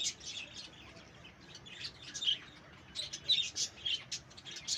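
A flock of budgerigars chattering in an aviary: many rapid, overlapping high chirps and warbles, growing busier and louder about three seconds in.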